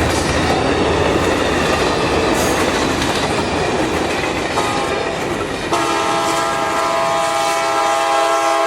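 A train running close by with loud, steady rail noise. About six seconds in its air horn sounds a held chord of several notes, which lasts to the end.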